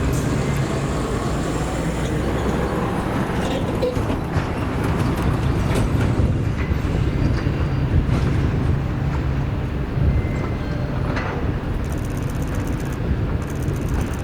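Diesel locomotive running past with a steady low engine drone and scattered clanks and clicks from the wheels on the track. A rapid, regular high-pitched ringing starts near the end.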